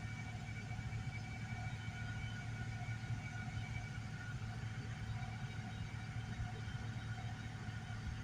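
Steady low hum of a car idling, heard from inside the cabin, with a few faint steady tones over it.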